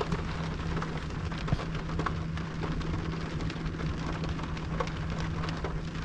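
Rain falling on a car's roof and windshield, heard from inside the cabin: a steady wash with many single drops ticking. A steady low hum runs underneath.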